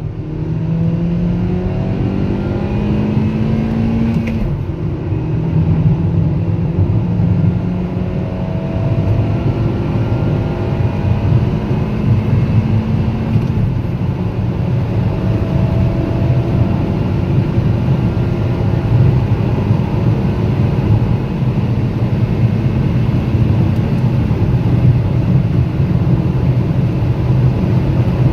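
2017 Kia Rio's 1.6-litre four-cylinder engine accelerating hard through a six-speed manual gearbox. The revs climb steadily in each gear, and three upshifts drop the pitch, about 4, 13 and 24 seconds in.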